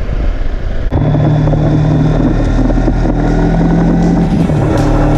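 Kawasaki Versys X300's parallel-twin engine running steadily while riding, with wind rush. About a second in, the sound changes abruptly from mostly wind rumble to a steady engine drone, and the engine note dips briefly near the end.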